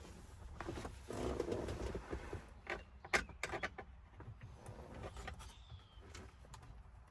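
Scattered clicks, taps and rustling of hand work on a truck's steering wheel and its plastic trim as parts are pressed and fitted into place, busiest in the middle.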